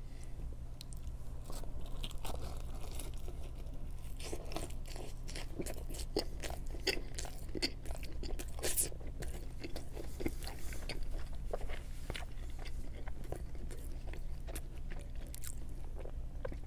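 Close-miked chewing of a slice of pizza dipped in ranch: crunches of crust and wet mouth sounds, with many small clicks throughout, over a steady low hum.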